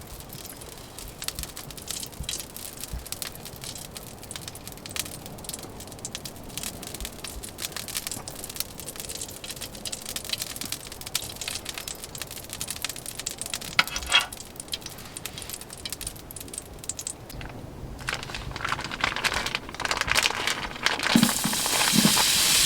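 Irregular crackling and crinkling, then near the end food goes into hot duck fat in a pan on the wood stove and starts sizzling loudly, the hiss growing.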